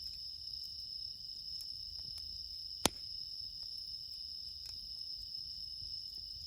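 Crickets chirping in a steady high chorus, with faint crackles from a wood campfire and one sharp pop from the fire about three seconds in.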